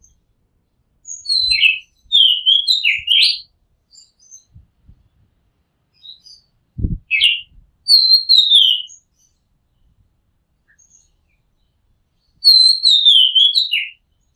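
Oriental magpie-robin singing in three bursts of quick, varied whistled notes that slide up and down, with pauses of a few seconds between phrases. A brief low bump comes about seven seconds in.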